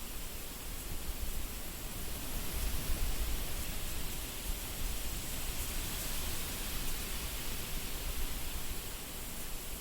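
Wind blowing steadily: an even rushing noise with a low, gusting rumble that swells slightly about three seconds in.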